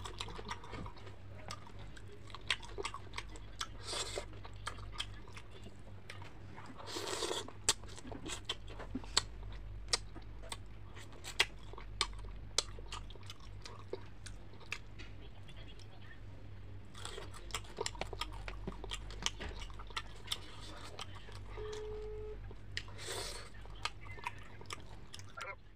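Chewing and crunching of fried fish, with many small wet mouth clicks and smacks, over a low steady hum.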